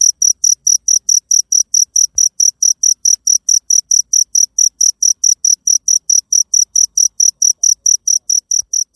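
Cricket chirping: a steady run of short, high-pitched pulses, about five a second, growing slightly softer near the end.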